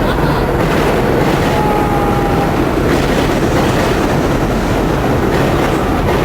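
Loud, steady rumble and rattle of a moving vehicle, with a few faint brief high squeals.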